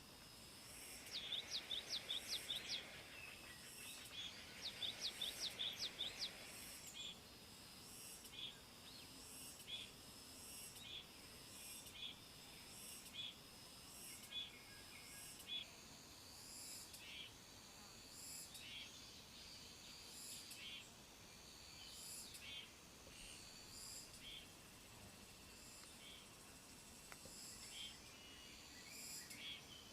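Insects chirping in a steady, even rhythm, with a bird giving two quick runs of about ten high, rising notes, about a second in and again about four seconds in.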